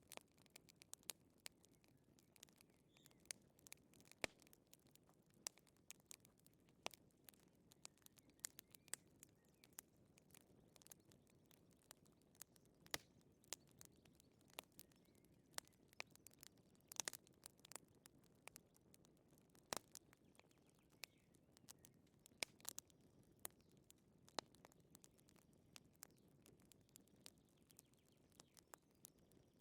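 Wood fire crackling in a fireplace, faint: irregular sharp pops and snaps over a soft low hiss.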